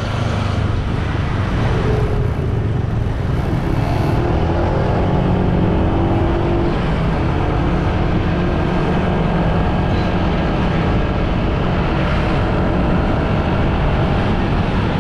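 Motorbike engine running on the move, with heavy wind rumble on the microphone. The engine note climbs for a few seconds as it speeds up, then holds steady.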